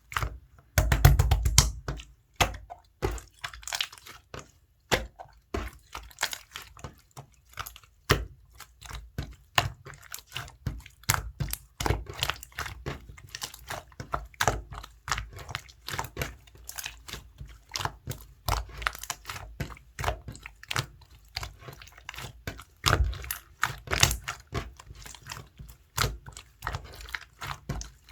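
Clear slime being squeezed and folded by hand, giving a quick, irregular run of sticky clicks and small pops as trapped air bubbles burst.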